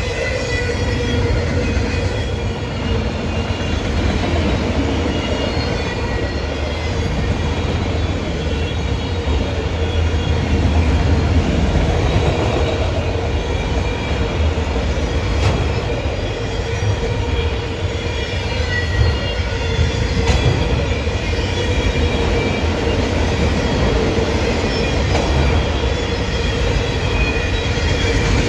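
Train rolling past at track side: a steady heavy rumble with thin high whining tones from the wheels, and a couple of sharp clicks about halfway through.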